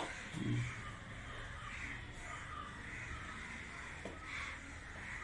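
Faint bird calls, several short calls in a row through the whole stretch, over low background hum. There is a dull low thump about half a second in.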